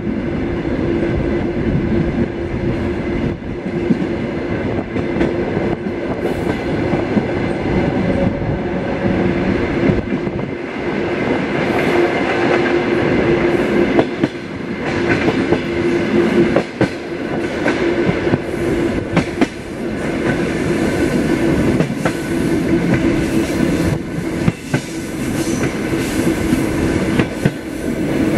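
Suburban passenger train car running along the track: a steady rumble of wheels on rail with a constant hum and occasional clacks over rail joints.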